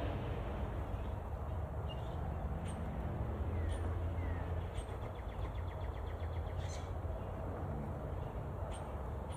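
Small birds chirping now and then, with a quick trilled run of notes about five seconds in, over a steady low rumble.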